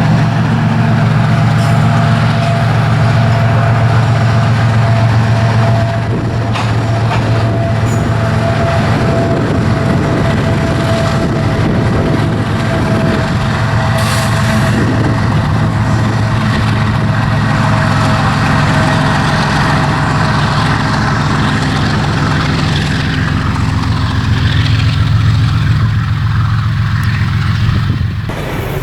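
Diesel locomotive running close by under power with a steady deep engine hum; the engine sound falls off near the end as the locomotive passes, giving way to the train's rolling wagons.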